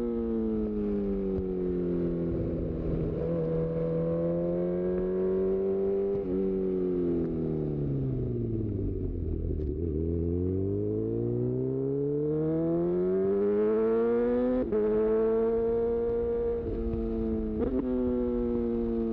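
2018 Honda CB1000R inline-four with a full aftermarket Black Widow exhaust, heard from the rider's seat. The revs fall away and hold, drop lowest about halfway through, then climb steadily under acceleration. Near the end there are short breaks in the note, which fit quickshifter gear changes.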